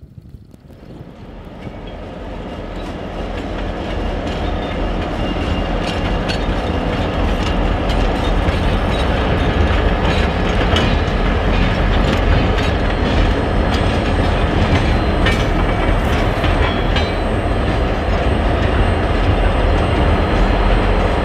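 A train rolling past close by. The rumble of wheels on rail builds over the first few seconds and then holds steady and loud, with scattered sharp clicks from the wheels over the rails.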